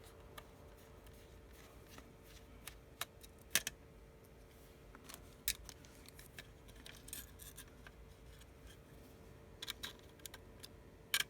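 Faint, scattered clicks and light taps of small hand tools on an iPhone 6s's internals, with a small cluster near the end, as the vibrator motor is worked free. A faint steady hum runs underneath.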